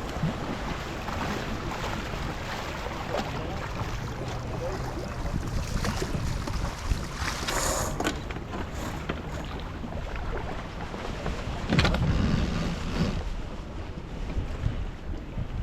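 Wind buffeting the microphone and water rushing along the hull of a sailing yacht under way, a steady noisy rush with a low rumble. Two short louder noises break through, one about halfway and one about three quarters of the way in.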